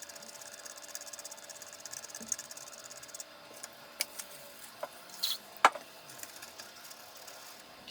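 A few sharp clicks and taps of small hard objects, the loudest about two thirds of the way in, over a faint steady hiss.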